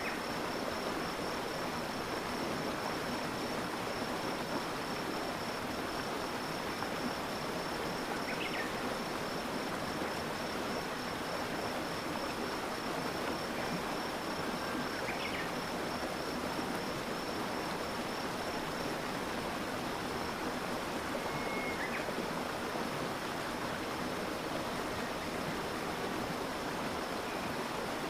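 Stream water flowing and splashing steadily. A fine, high pulsing trill runs beneath it and stops about two-thirds of the way in, and a few brief faint high calls sound now and then.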